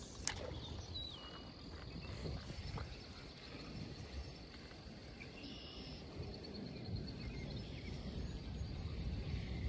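Quiet outdoor pond-side ambience: a low steady rumble with faint high chirping, a sharp click just after the start and a short falling whistle about a second in.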